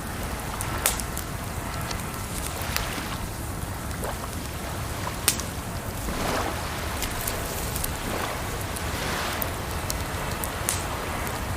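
Campfire crackling with irregular sharp pops and snaps over a steady rush of water.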